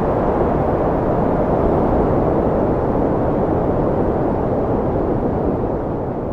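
Wind blowing steadily as a low, rushing noise that eases slightly near the end.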